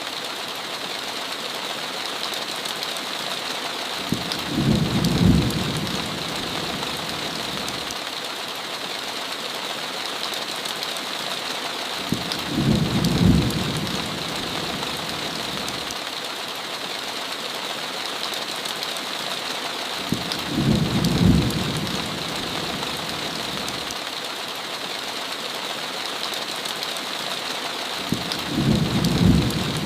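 Steady heavy rain, a continuous hiss, with a low rumble of thunder that swells and fades about every eight seconds, four times.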